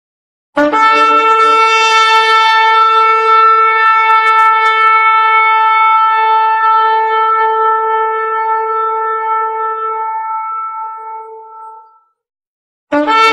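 One long held note blown on a horn, lasting about eleven seconds and fading away; after a brief pause a second blast begins.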